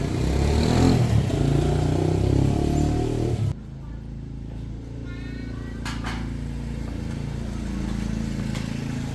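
A motor vehicle engine running, loud at first, then dropping abruptly about three and a half seconds in to a quieter steady hum.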